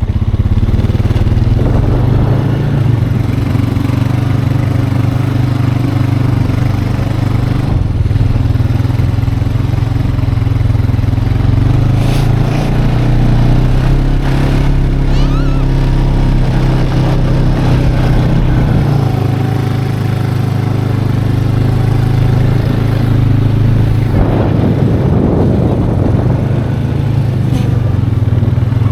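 Four-wheeler (ATV) engine running steadily under way, its pitch shifting a little now and then.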